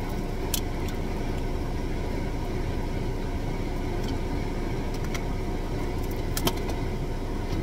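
Steady low hum of a car idling, heard inside the cabin, with a few light clicks from a plastic water bottle being opened and handled.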